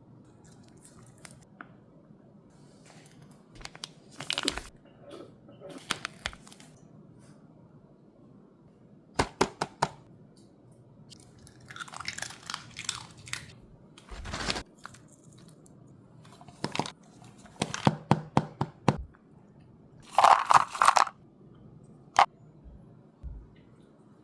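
Dog chewing and eating monkfish meat, in short clusters of crunchy, wet chewing sounds with quiet pauses between. The loudest bouts come about halfway through and again near the end.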